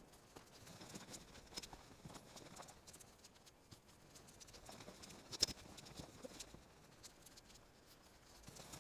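Wood fire burning with faint, irregular crackles and small pops, one sharper pop about five and a half seconds in.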